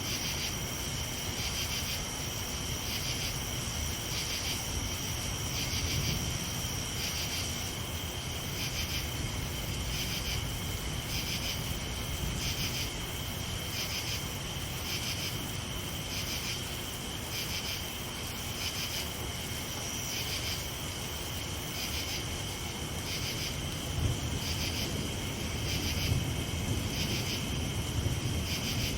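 Night insects chirping: two steady high trills with a pulsing chirp about once a second, over a steady low rumble and hiss of rain.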